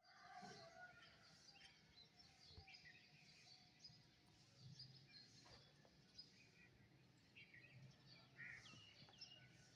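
Faint chorus of small birds chirping and twittering, many short calls overlapping with no steady rhythm.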